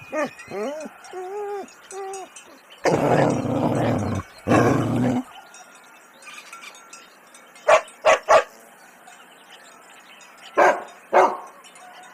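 Dogs: a quick run of short pitched whining yelps at first, then two longer rough bursts, then short sharp barks, three in quick succession near the middle and two more near the end.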